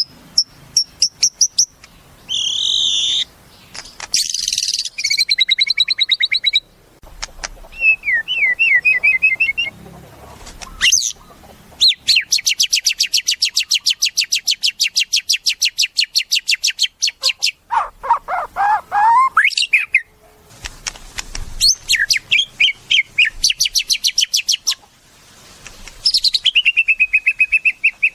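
White-rumped shama (murai batu) singing a varied song of fast trills, rising and falling whistles and rapid runs of repeated notes, including one long rapid rattle in the middle.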